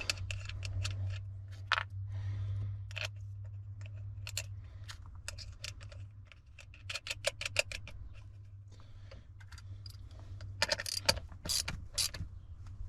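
Socket ratchet clicking in short runs of quick, evenly spaced clicks while battery terminal nuts are turned, over a steady low hum.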